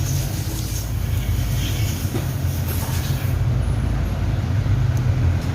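Steady low mechanical hum, like a motor running, with no clear strokes or changes.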